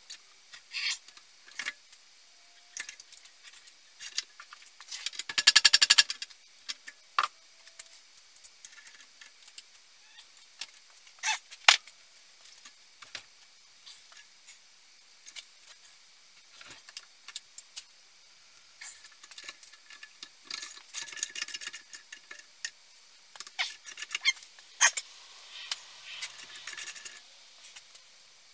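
Small metal parts and hand tools being handled during a chainsaw restoration: scattered sharp clicks and clinks, with a fast rattling run of clicks about five seconds in and busier clusters of small clicks near the end.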